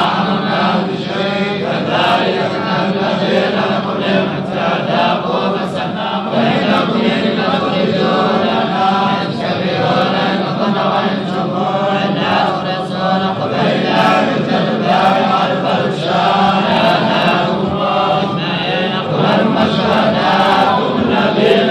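Chanted recitation of the Quran in Arabic, continuous and unbroken.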